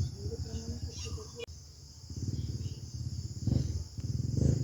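Steady high chirring of crickets, with a low rumbling noise on the microphone that swells twice near the end.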